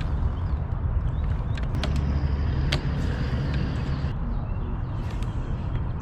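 A motor running steadily under way with a low rumble, with a few sharp clicks.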